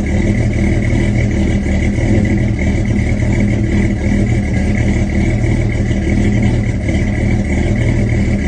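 1963 Chevy Nova engine idling steadily, warming up after a cold start.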